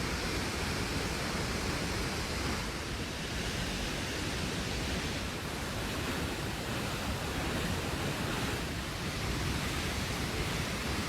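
Steady rushing of fast-flowing floodwater, an even noise with no breaks.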